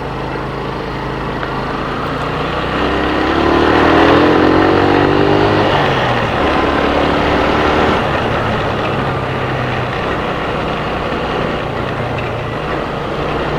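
A motorcycle engine is running under way, with a steady rushing noise underneath. About three seconds in, the engine pitch rises and gets louder as it accelerates, then settles into a steadier cruise.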